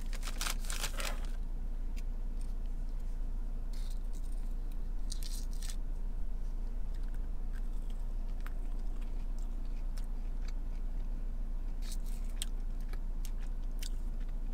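Chewing of a crunchy breaded buffalo chicken nugget, with scattered small clicks and scrapes from a plastic fork and ranch cup, over a steady low hum in a car cabin.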